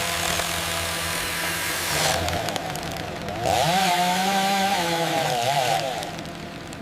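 Engine-driven wood-cutting machine running steadily. About halfway through it grows louder, with its pitch sagging and recovering as it works through wood, then drops back to a quieter run near the end.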